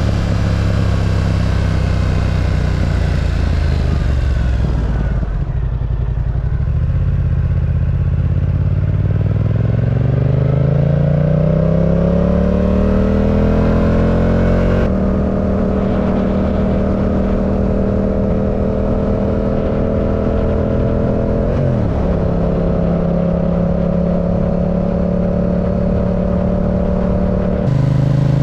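Yamaha R7's parallel-twin engine running under way. Its note drops off about five seconds in, rises steadily as the bike accelerates, then holds a steady pitch with one brief dip later on.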